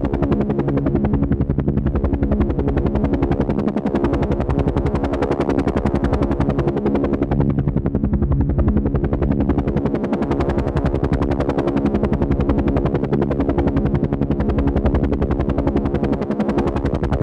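Helicopter rotor sound: a steady, rapid chop of evenly spaced pulses over a steady drone, unchanging throughout.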